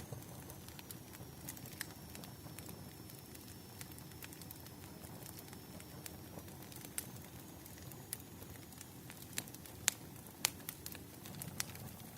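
Wood fire crackling, with irregular sharp pops and snaps over a low steady rush.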